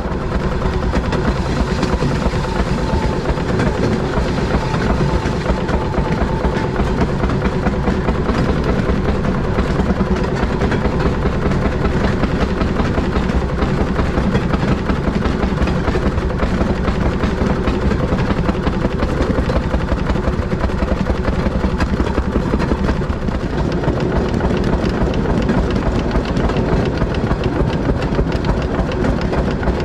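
Fairmont M19 railroad motorcar (speeder) engine running steadily at a rapid firing rate while the car travels along the track.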